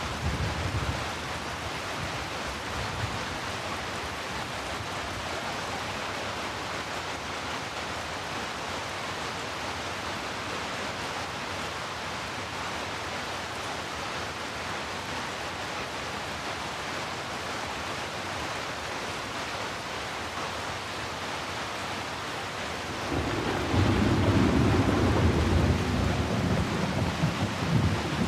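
Steady rain falling, an even hiss, with a low rolling rumble of thunder building in near the end and continuing.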